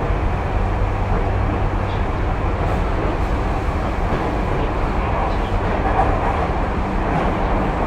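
Tokyu 2020 series electric commuter train heard from inside the car while running: a steady rumble of wheels on rail with car-body noise, holding an even level throughout.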